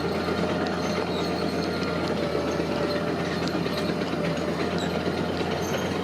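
Heavy earth-moving machinery running: a steady engine drone under a continuous metallic rattle and clatter.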